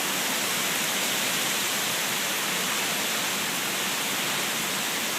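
Steady, even rushing noise of a tropical storm's wind-driven rain.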